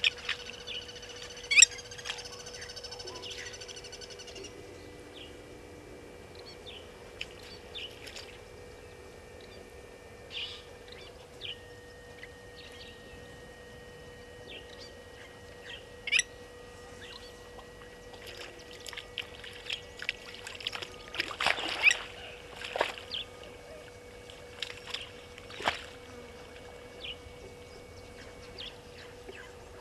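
Wild birds calling: held whistled notes in the first few seconds, then scattered short, sharp call notes, the loudest about a second and a half in, around the middle, and in a burst a little past two-thirds of the way. A steady low hum runs underneath.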